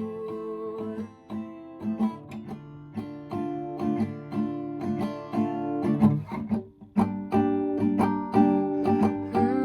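Acoustic guitar playing chords in an instrumental passage, a sustained note fading about a second in, with a brief pause about two-thirds of the way through before the chords resume.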